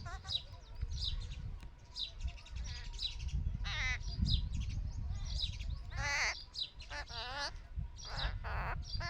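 Birds chirping: short high chirps repeated about twice a second, with several longer wavering calls in the second half, over a low steady rumble.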